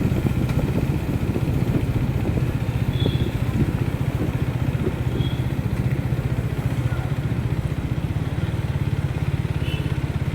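Motorcycle engine running steadily with a low, even pulsing note that holds constant. A few faint, brief high chirps sound over it.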